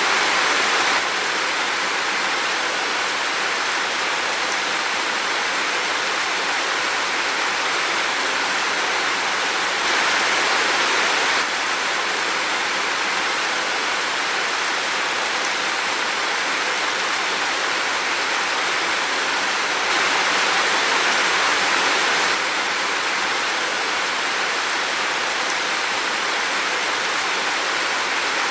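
Heavy rain falling in a dense, steady hiss that swells a little louder for a second or two about every ten seconds.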